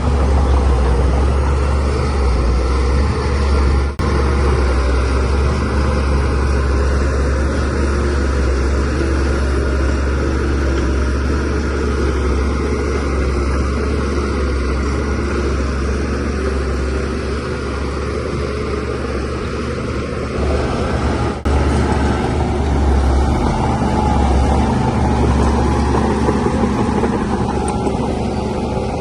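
DH17C3 bulldozer's diesel engine running steadily under load, a strong low drone, with two brief dips in level about 4 and 21 seconds in.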